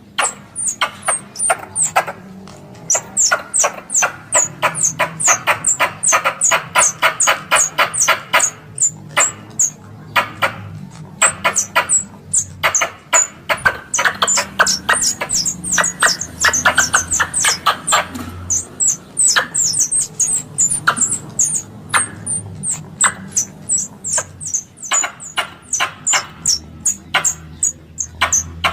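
Squirrel chattering call played as a hunting lure: runs of rapid, sharp, high-pitched chips, several a second, broken by short pauses.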